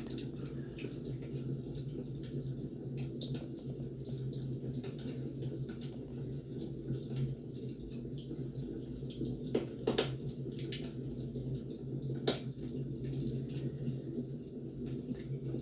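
Wood fire crackling, with scattered sharp pops over a steady low rumble of the burning logs; a few louder pops come about ten and twelve seconds in.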